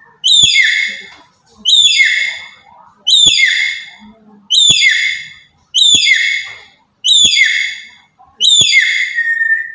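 Black-capped lory giving loud, harsh calls, seven in a row, about one every second and a half. Each call falls in pitch.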